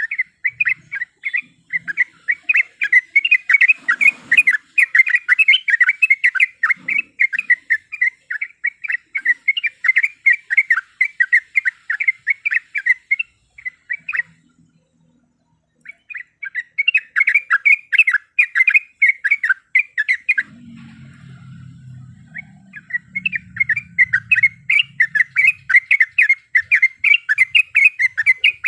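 Yellow-vented bulbul (trucuk) singing long rapid runs of short chattering notes, several a second, breaking off twice, about halfway through and again some seconds later, when a faint low rumble is heard.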